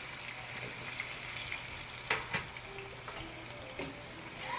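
Browned chicken pieces sizzling steadily in hot oil and freshly added fish sauce in a deep pan. Two sharp knocks of a utensil against the pan come a little past halfway.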